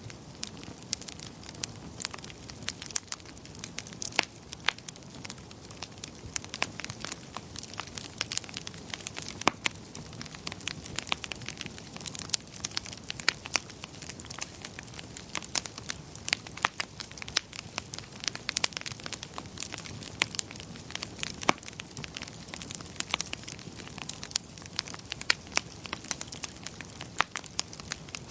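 Wood fire in a fireplace crackling: frequent sharp pops and snaps at irregular intervals over a soft, steady rush.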